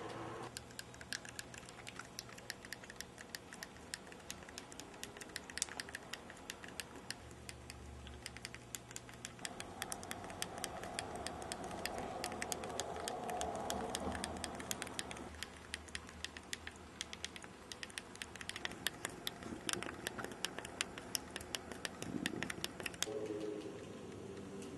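A long run of rapid, irregular sharp clicks over a low steady hum.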